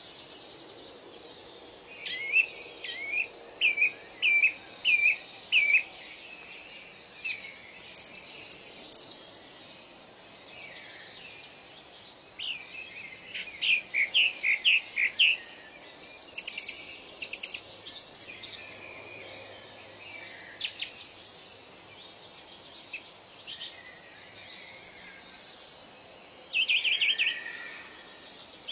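Several birds singing and calling over a steady background hiss: phrases of short, high chirps repeated again and again, with a run of about half a dozen loud notes near the start, a faster run about halfway through, and another just before the end.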